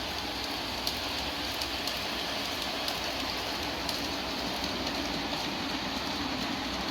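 Long G-scale model train running on track: a steady rolling noise of many plastic and metal wheels on the rails, with scattered sharp clicks at uneven intervals.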